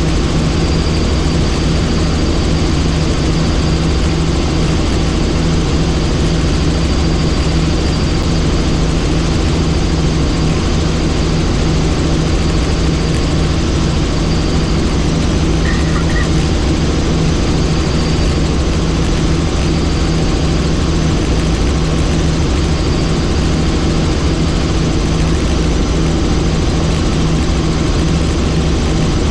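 Helicopter in flight: steady turbine engine and rotor noise, a constant loud drone with a strong low hum that does not change.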